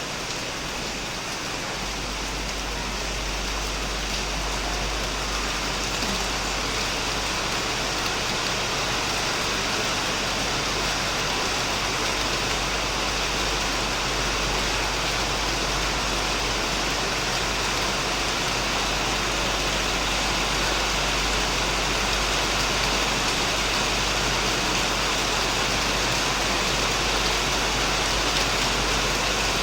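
Heavy rain falling steadily on a shed roof and plants: a dense, even hiss that grows slightly louder, with a low rumble coming in about two seconds in.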